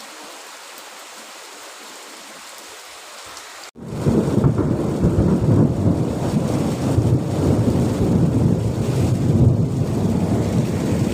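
Steady hiss of heavy rain. About four seconds in, after a sudden break, a much louder, deep, uneven rumbling noise takes over.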